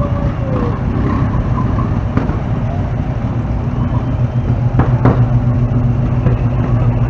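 Classic cars driving slowly past: a Hudson Hornet rolls by close, its engine a low, steady rumble that grows stronger about halfway through as the next old car comes up. A couple of short clicks sound around five seconds in.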